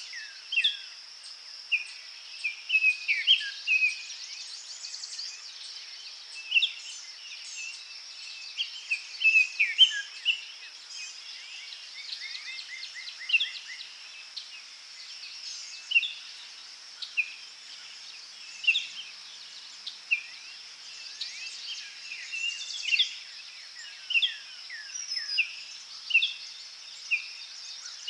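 Several forest birds calling and singing: short chirps, whistled notes and quick trills, over a steady high insect drone.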